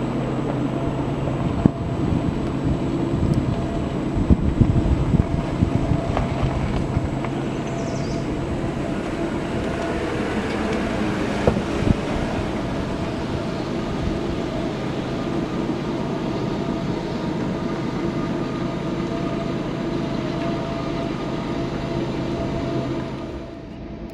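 Diesel freight train running by: a steady locomotive engine drone with a few sharp clanks.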